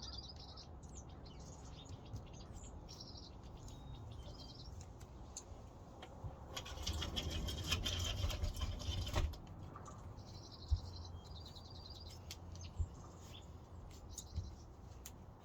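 Small songbirds chirping in short, quick trilled phrases. Midway, a loud burst of rough noise lasts about two seconds, followed later by a couple of sharp clicks.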